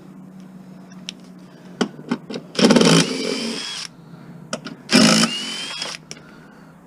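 Cordless power driver run in two bursts of about a second each, its motor whine rising in pitch as it spins up, backing fasteners out of a lawn mower being stripped for scrap.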